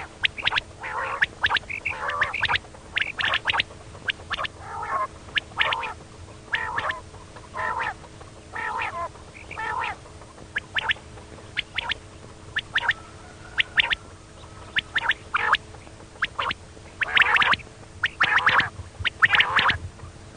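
Female quail calling: short, harsh notes repeated about once a second, coming in quicker clusters near the end, over a faint steady hum.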